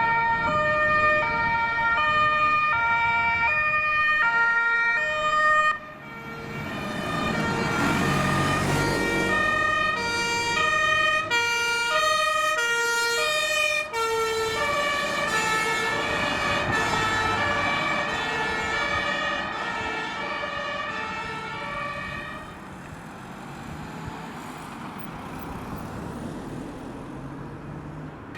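German two-tone fire-brigade sirens (Martinshorn) on a fire engine and a crew van driving past one after the other, the two notes alternating steadily. A vehicle rushes past about 8 seconds in. The sirens stop about 22 seconds in, leaving engine and tyre noise.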